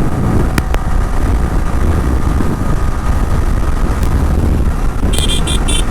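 Motorcycle riding along the road: steady engine and road rumble with wind buffeting the microphone. Near the end there is a quick run of four or five high-pitched beeps.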